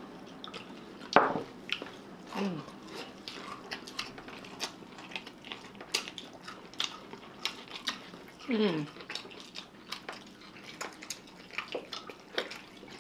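People chewing and biting into burgers and fried sides, with many small wet mouth clicks and smacks, a sharper click a little over a second in, and two short falling hums from a voice.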